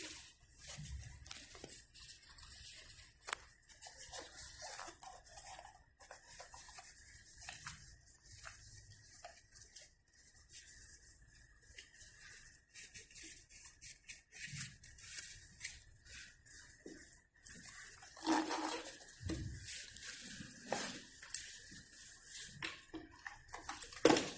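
Handling noises: scattered light clicks, taps and rubbing, with a louder clack about 18 seconds in and a sharp knock near the end, over a faint steady high hum.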